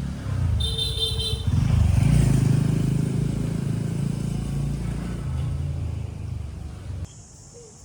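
Motor vehicle engine running close by and passing, loudest about two seconds in, with a short high beep near the start. It cuts off abruptly about seven seconds in.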